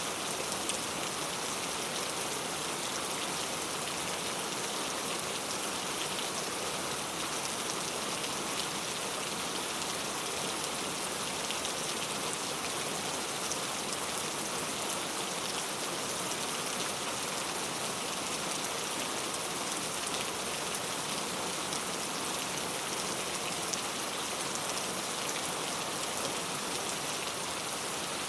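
Heavy rain falling steadily, a dense even hiss with scattered sharp drop ticks, rain on hard street surfaces.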